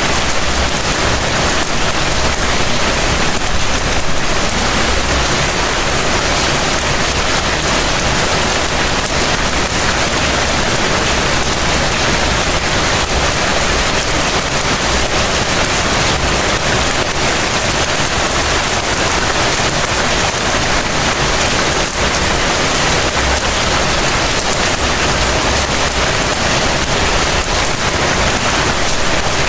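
Heavy rain falling steadily, a dense even hiss of rain on surfaces with a low rumble underneath.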